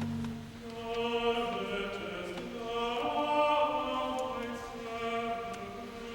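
Choir singing slowly, holding long notes that change pitch every second or so.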